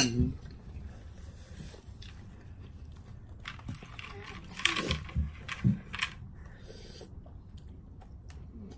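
A person eating noodle soup: quiet chewing, with a short cluster of louder eating noises and a couple of soft knocks about halfway through.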